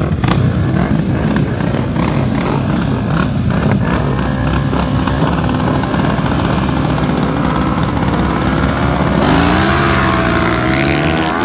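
Sport motorcycle engines running at speed on a track. From near the end a louder bike comes in, its engine pitch rising and falling as it revs through the gears.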